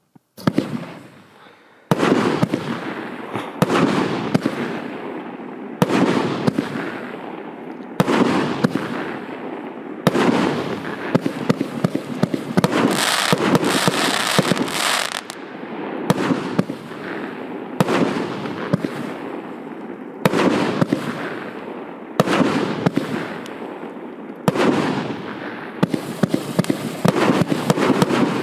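A firework cake of 1.2-inch shells firing shot after shot, with a sharp bang about every two seconds. Each bang is followed by a dense crackling tail, and the crackle is thickest about halfway through.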